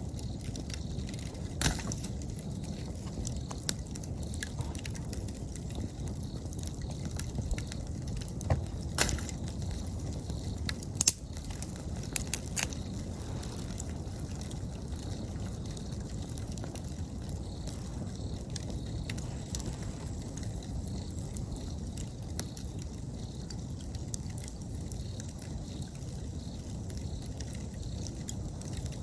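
Wood campfire burning with a steady low rustle and occasional sharp crackles and pops, most of them in the first half and the loudest about eleven seconds in. Autumn insects call faintly and steadily behind it.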